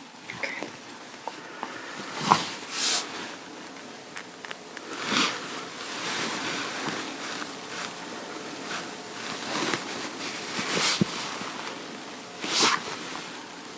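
Clothing fabric rustling and swishing as it is handled and adjusted, with a few louder short swishes and some small clicks.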